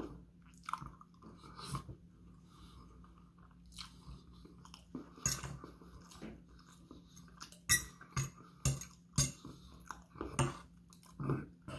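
A person chewing and smacking on a mouthful of food, close to the microphone: irregular wet clicks and smacks, sharper and louder in the second half.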